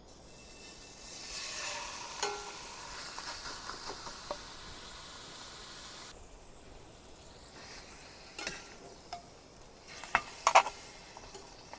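Beef sizzling on a grill over a camping brazier, a hissing that swells and cuts off abruptly about halfway through. Then a few sharp clicks and knocks, the loudest near the end.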